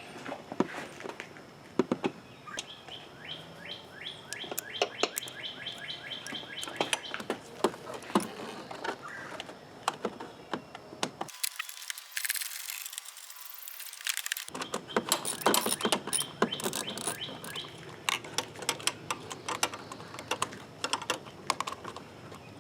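Irregular small metallic clicks from a 7 mm ratcheting wrench backing out a coil-pack bolt, with songbirds chirping in the background.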